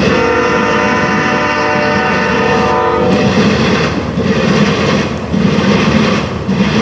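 Freight locomotive's multi-chime air horn sounding a long chord that cuts off about three seconds in, leaving the loud, steady rumble of the passing train.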